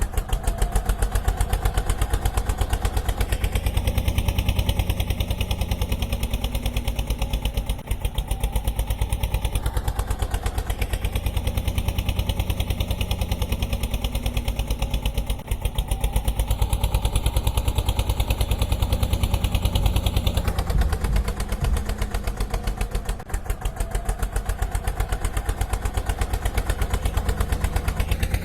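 Road roller's diesel engine running steadily with an even, fast pulse of firing strokes.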